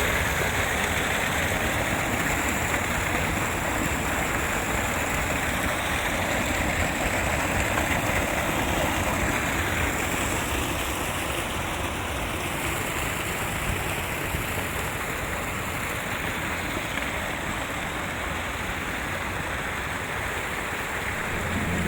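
Steady rushing noise of flowing water, even throughout.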